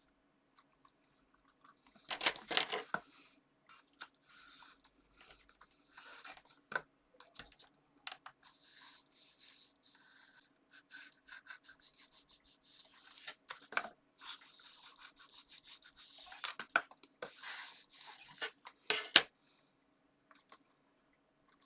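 Paper and card being handled and pressed down by hand: intermittent rustling and scraping rubs with light clicks and taps.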